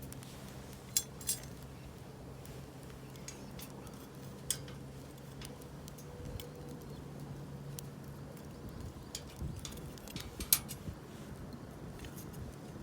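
Wood bonfire crackling, with a few scattered sharp pops, the loudest about ten and a half seconds in.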